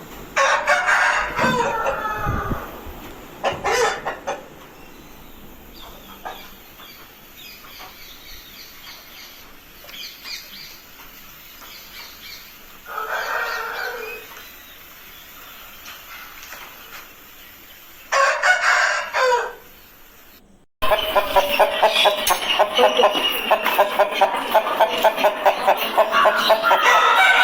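Aseel rooster crowing four times, the crows spread over about twenty seconds. After a sudden cut near the end there is a loud, continuous run of rapid pulses.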